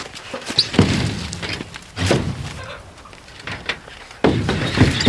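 Scrap wood boards being tossed down, making heavy wooden thunks and clatters: one about a second in, another around two seconds, and a louder run of several near the end.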